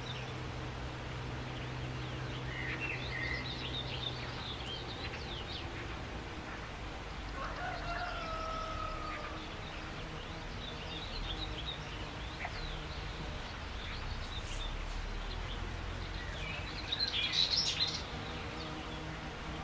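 Outdoor birdsong ambience: small birds chirping throughout, a rooster crowing once in the middle, and a louder burst of chirping near the end, over a steady low hum.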